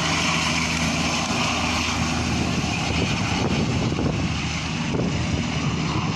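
Firefighting helicopter's engine and rotor running steadily, with a constant low hum under a broad rushing noise.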